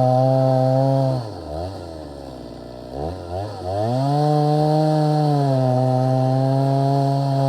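Stihl MS 290 two-stroke chainsaw held at full throttle. About a second in it drops to idle and is blipped twice. At about four seconds it goes back up to full revs and stays there.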